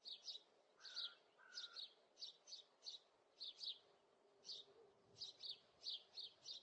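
Small birds chirping faintly: quick, high, short chirps in irregular clusters, with a couple of lower notes about a second in.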